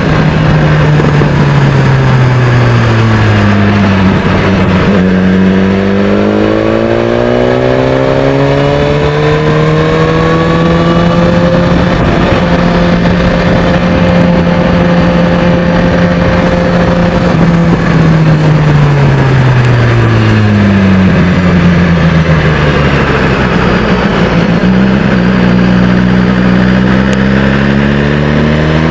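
BMW S1000XR's inline-four engine running through a Termignoni exhaust, its note falling as revs drop, climbing, holding steady for several seconds, falling again and climbing once more near the end.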